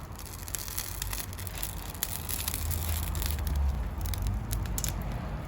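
Wood campfire crackling with many sharp pops and snaps, densest in the first few seconds, over a steady low rumble.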